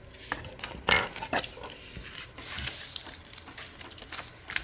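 Small hard plastic parts being handled: irregular clicks, knocks and light rattling as the duster kit's attachments and packaging are picked up and moved, with the sharpest knock about a second in.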